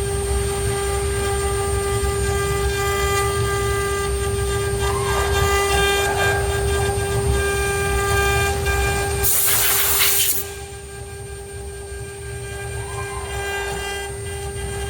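ART1325 CNC router running with a steady, even-pitched whine over a low rumble. About nine seconds in there is a brief burst of hiss, and then the machine runs noticeably quieter.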